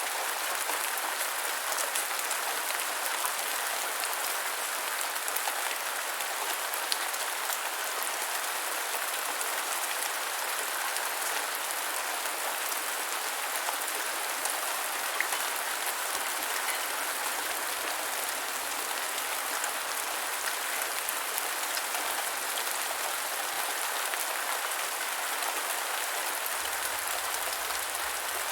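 Steady gentle rainfall: an even hiss with scattered individual drops ticking on a surface.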